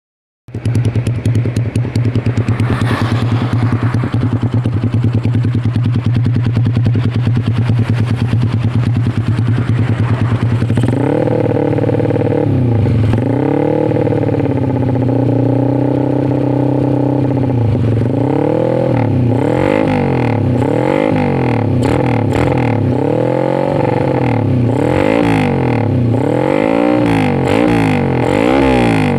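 Yamaha Jupiter MX (LC135) single-cylinder four-stroke engine running through an aftermarket CLD Racing exhaust, idling steadily at first, then revved up and down from about eleven seconds in, with quicker repeated throttle blips toward the end.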